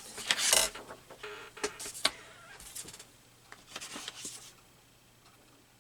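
Paper and craft pieces being handled on a work table: irregular rustling with a few sharp clicks and taps.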